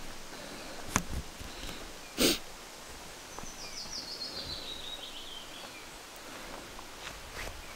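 A small songbird sings one phrase of quick notes that falls steadily in pitch, over steady outdoor background noise. A click comes about a second in, and a short, loud rush of noise a little after two seconds.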